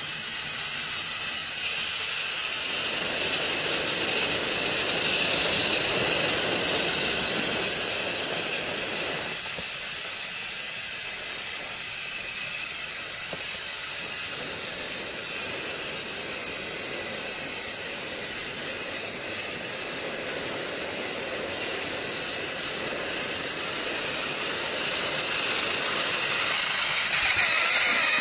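A train running: a steady, noisy sound that swells a few seconds in, eases off, and grows louder again near the end.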